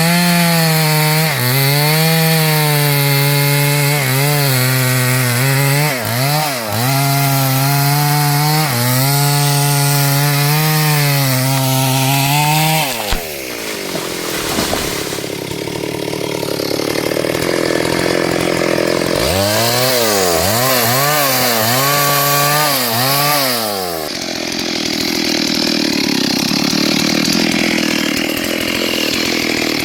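Two-stroke chainsaw running at high revs while cutting through wood, its engine note dipping and recovering again and again as the chain bogs under load. About 13 s in the pitch falls away sharply, and after a noisier stretch the saw swings up and down quickly again before running on steadily.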